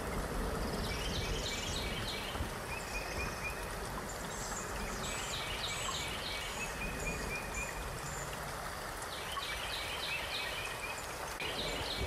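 Steady rush of a flowing stream, with a songbird singing a short phrase of quick repeated chirps over a trill every few seconds.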